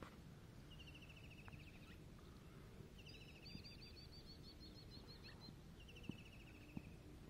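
Faint birdsong: a short, rapid trill repeated about every two to two and a half seconds, with a second, higher trill overlapping it in the middle, over a low steady background hum. Two faint soft knocks come near the end.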